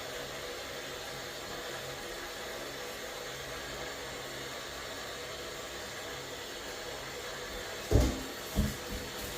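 A steady hiss, then two dull knocks close together near the end, the first the louder.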